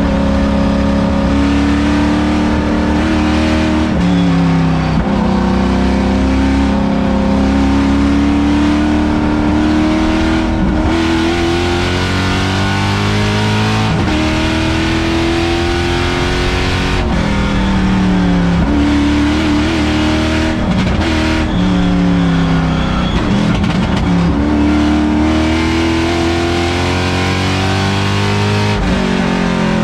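LS3 V8 engine of a Mazda Miata race car under hard acceleration, heard from inside the cabin. Its pitch climbs steadily and then falls sharply at each gear change or lift, several times over.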